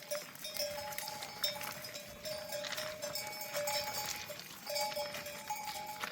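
Bells on a flock of sheep clanking and ringing as the animals move, their tones coming and going in short irregular strokes among many small knocks.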